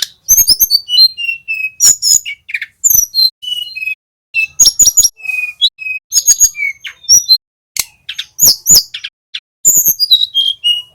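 Flycatcher song: fast, varied phrases of high sweeping whistles, quick chips and short trills, broken by brief pauses.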